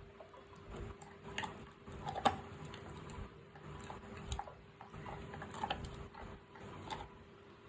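Dog chewing mutton: irregular wet clicks and crunches at a few per second, with the sharpest snap about two seconds in.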